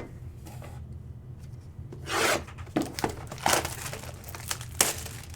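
Cardboard trading card packaging being handled and torn open: a longer rubbing scrape about two seconds in, then several short scrapes and taps, over a steady low hum.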